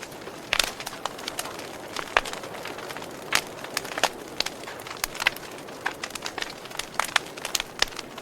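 Wood fire crackling: irregular sharp pops and snaps over a steady soft hiss of burning.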